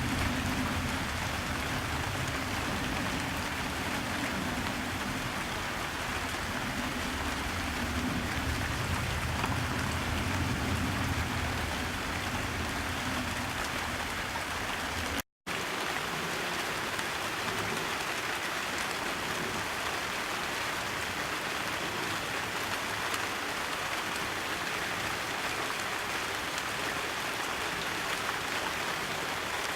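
Steady rain falling, an even hiss without a break except for a sudden brief cut about halfway through; after the cut the low rumble underneath is lighter.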